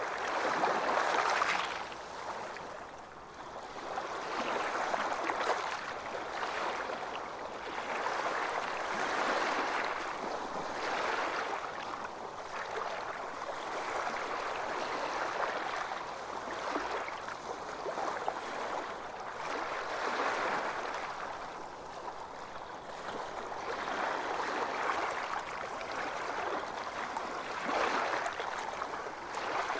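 Ocean waves washing ashore on a beach, the wash swelling and easing every few seconds.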